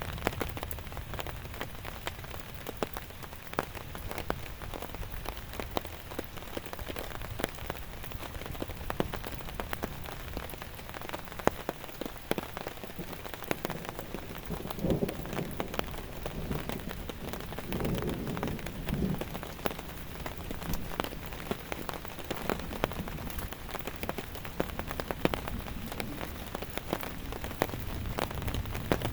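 Steady heavy rain falling, with many close drops ticking sharply against a continuous hiss. A few dull, low sounds come in about halfway through.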